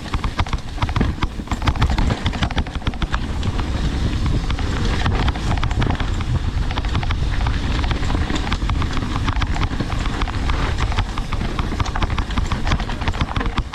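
Mountain bike riding fast down a rocky downhill trail: the frame, chain and wheels rattle and clatter with many sharp knocks over the rocks, over a steady low rumble.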